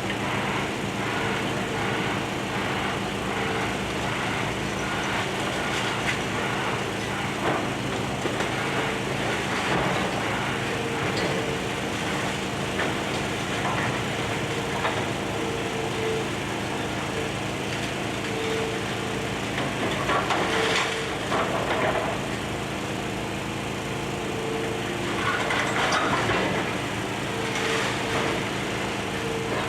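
Excavator's diesel engine running steadily on demolition work, with a few louder rough bursts of noise about two-thirds of the way through and again near the end.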